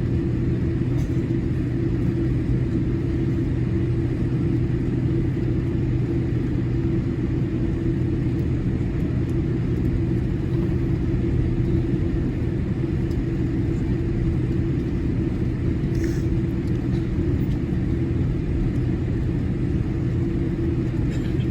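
Steady rumble inside a Boeing 787-8 airliner cabin after landing, with a low, even hum running under it and a faint click about 16 seconds in.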